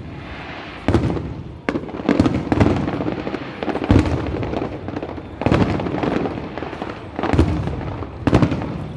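Aerial fireworks shells bursting overhead: a string of sharp booms, about one to two a second, each trailing off in a rumble and crackle.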